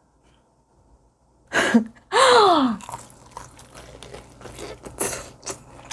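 Bites into crispy fried chicken: a run of many short, crisp crunches while chewing. About two seconds in, before the crunching, there is a louder short sound that falls in pitch.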